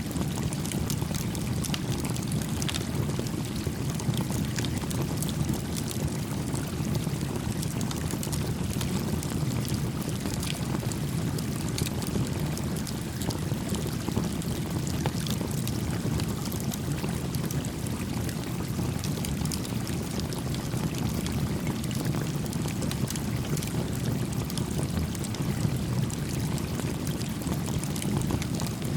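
Steady rushing of a stream, with a small wood campfire crackling over it in frequent light pops and snaps.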